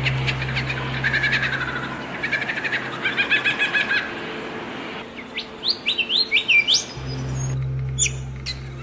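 Songbirds chirping and trilling, with fast repeated notes early on and a run of short upward-sweeping whistles in the middle. A low steady hum lies underneath at the start and again near the end.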